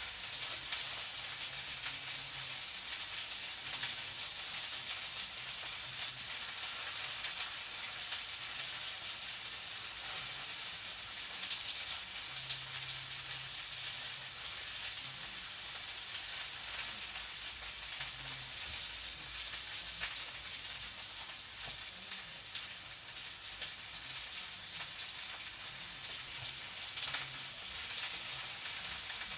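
Food sizzling steadily in a hot frying pan, an even crackling hiss that keeps on without a break.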